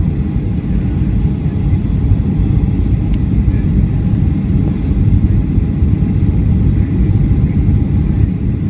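Steady low cabin rumble aboard a Boeing 757-200 airliner: engine and airflow noise, with a faint steady hum above it.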